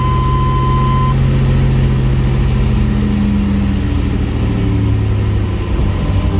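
Buick Grand National's turbocharged 3.8-litre V6 idling steadily, with a thin steady high tone that stops about a second in.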